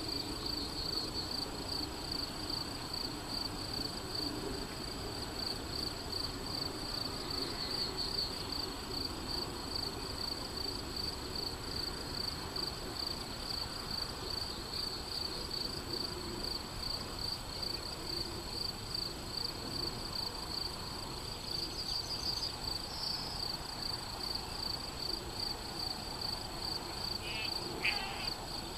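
Crickets chirping in a fast, steady pulsing trill, with a couple of brief animal calls near the end.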